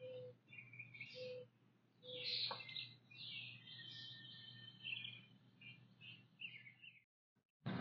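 Wild birds chirping and singing outdoors, many short high calls overlapping, over a steady low hum. The sound cuts out about a second before the end.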